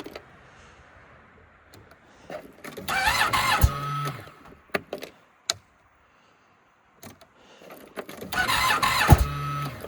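2007 Polaris IQ 750 snowmobile engine cranked twice, each try about a second and a half and a few seconds apart, turning over without catching; a few sharp clicks come between the tries. The engine is cold-soaked and stiff at about minus 40, and it nearly fires.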